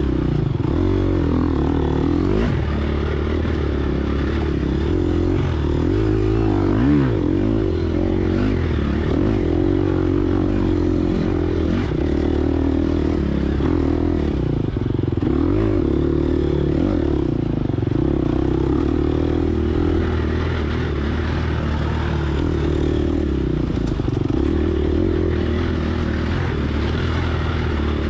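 Gas Gas EX250F single-cylinder four-stroke dirt bike engine revving up and down continuously under riding load, with rattling and scraping from the bike over rough ground.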